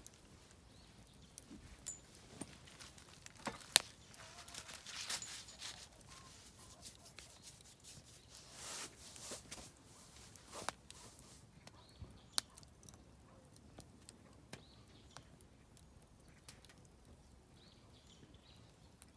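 Oak firewood crackling in a small campfire brazier: sharp pops and snaps at irregular intervals, with a few short spells of hissing in the first half. Faint bird calls in the distance.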